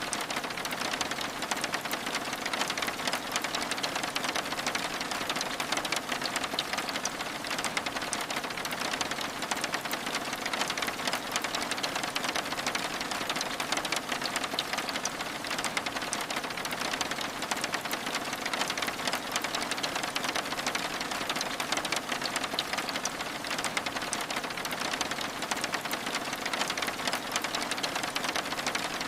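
Steady rain with a dense patter of fine drop ticks, as on window glass, holding an even level throughout.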